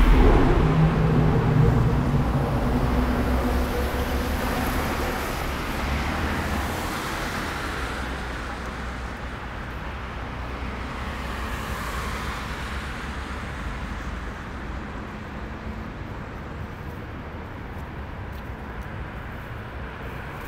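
An unexplained low drone, a few steady deep tones together, starting abruptly and fading away over several seconds into steady city traffic noise.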